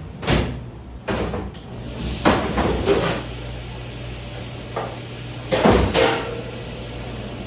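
Several knocks and thuds a second or more apart, over a low steady hum.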